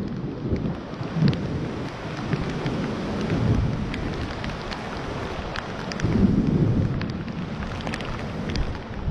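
Thunderstorm rain falling steadily, with scattered sharp drop ticks and low rumbles of thunder that swell about three seconds in and again around six seconds.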